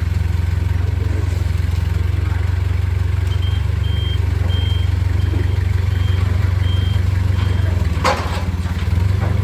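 An engine running steadily at idle with a deep, even hum. Through the middle comes a series of about seven short, high-pitched beeps, evenly spaced. A sharp knock is heard near the end.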